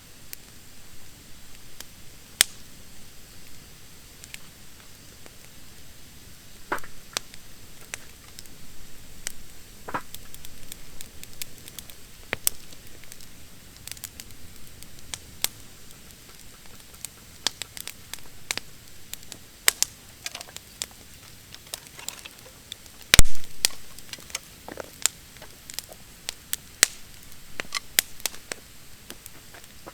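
Campfire of damp, freshly cut branches crackling, with irregular sharp pops and one much louder pop about three-quarters of the way through.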